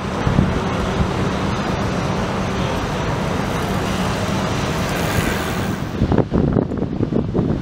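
Busy city street traffic passing as a steady rush with a faint low hum. From about six seconds in, wind buffets the microphone in gusts.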